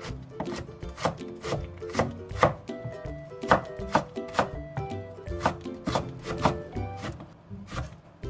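Kitchen knife chopping vegetables on a cutting board in steady strokes, about two a second.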